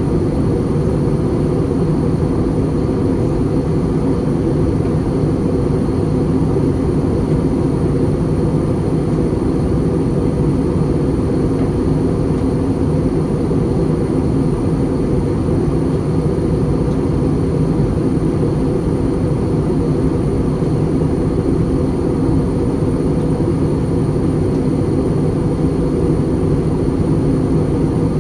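Steady cabin drone inside an Airbus A320 in flight on descent: the jet engines and the airflow over the fuselage make an even, deep rumble with a few faint steady tones, unchanging throughout.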